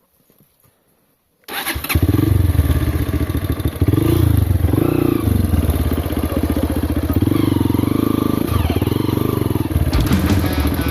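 Off-road motorcycle engine running hard, its revs rising and falling; it comes in suddenly about a second and a half in after a near-silent moment.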